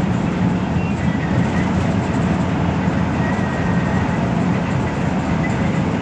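Steady engine and road rumble inside a moving express bus cabin, with a faint high whine coming and going.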